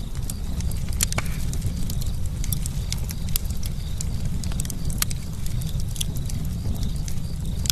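Campfire burning: a steady low rumble with frequent irregular crackles and sharp pops of burning wood, a few louder pops standing out.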